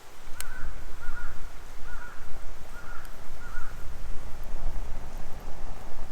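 A crow cawing five times in quick succession, over the steady low rumble of a wood fire burning, with one sharp crackle just before the first caw.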